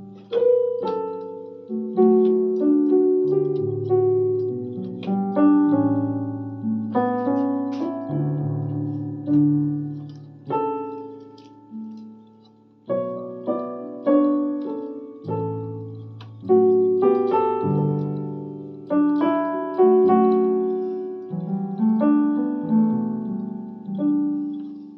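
Electronic keyboard played in a piano voice: a slow melody over bass notes and chords, each struck note fading away, with a short pause about halfway through.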